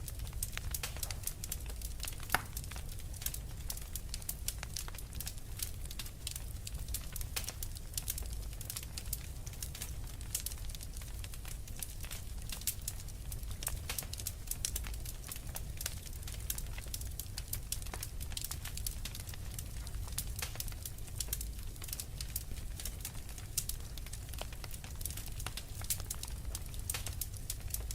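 Wood fire crackling, with a dense run of small sharp pops and one louder pop a couple of seconds in, over a steady low rumble.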